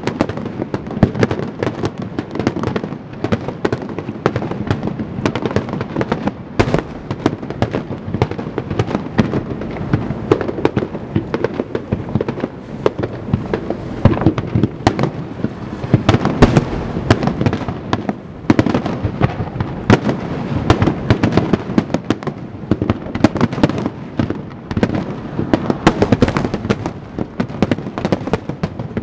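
Aerial firework shells bursting in a dense, unbroken barrage. Many bangs and booms overlap with no pause between them.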